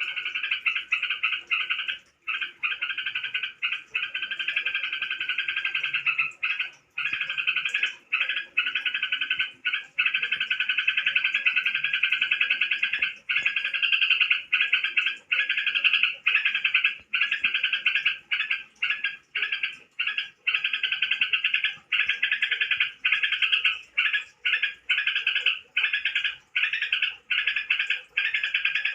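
A tame bird, the kind known locally as crokcokan, calling in a loud, rapid buzzy trill that runs on for several seconds at a time, broken by short pauses that come more often in the second half.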